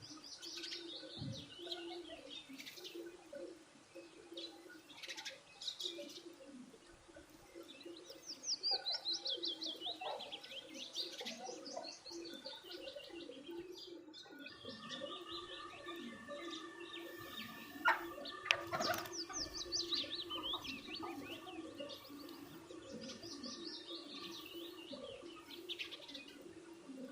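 Several small birds chirping, with runs of quick falling trills repeated every few seconds, over a low steady drone. A couple of sharp clicks come a little after the middle.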